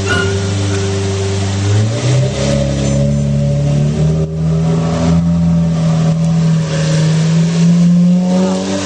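Lamborghini Murciélago's V12 engine pulling the car away at low speed: the engine note steps up about two seconds in and again around four seconds, then holds and climbs slightly as the car drives off.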